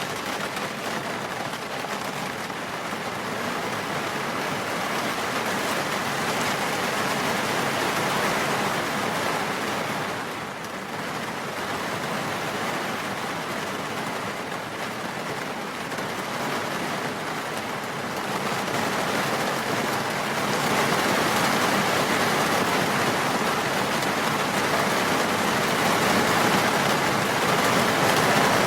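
Steady rain, an even hiss that dips briefly about ten seconds in and grows louder from about twenty seconds in.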